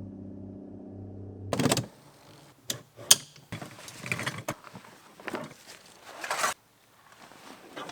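A steady hum stops about a second and a half in with a loud knock, followed by a few sharp clicks and knocks and rustling as gear is handled at a truck.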